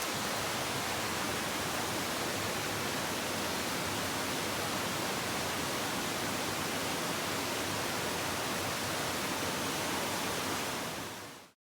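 Steady, even rush of falling water, fading out quickly just before the end to silence.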